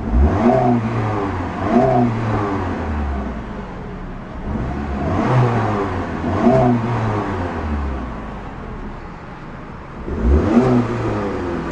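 2008 Chrysler PT Cruiser's 2.4-litre four-cylinder engine free-revving in about five quick blips up toward its rev limiter, around 3,000 rpm, each time falling back toward idle, with a longer settle near idle just before a final blip near the end.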